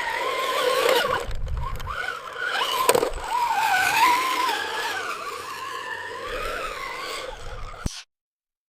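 Whine of a radio-controlled model's electric drive, its pitch wavering up and down as the throttle changes, with some scraping noise underneath. It stops abruptly about eight seconds in.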